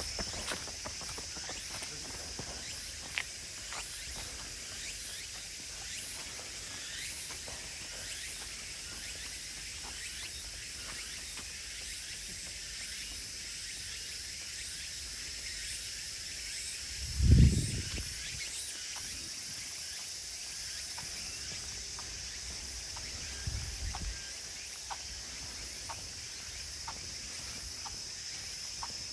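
Steady insect chorus, a continuous high-pitched drone, with light footsteps on a woodland path ticking throughout. A short low thump comes a little past halfway, and a weaker one a few seconds later.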